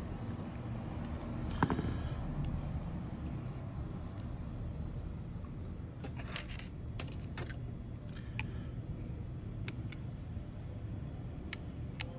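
Small metal repair tools clicking and tapping in scattered light strikes, a few close together about six to seven seconds in, over a steady low background rumble.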